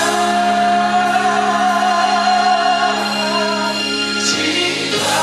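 Live gospel singing over sustained instrumental chords. A singer holds one long note for about three seconds.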